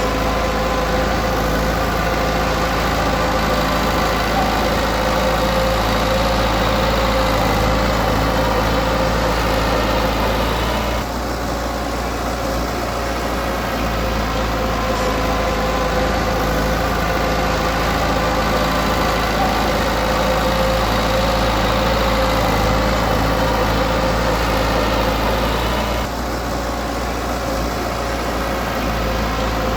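Heavy-equipment diesel engine running steadily, its level dipping briefly twice, about a third of the way through and near the end.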